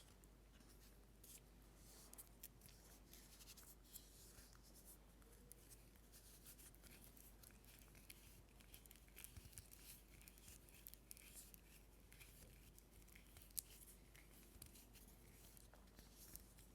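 Faint, crisp scratching and clicking of objects handled close to a sensitive microphone, as in ASMR tapping and scratching, with many small irregular ticks and one sharper click about two-thirds of the way through.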